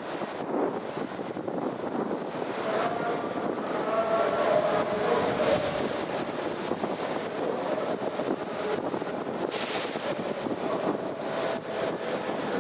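Moving train running with a steady rushing rumble, and a faint whine that comes in about three seconds in and again near the end.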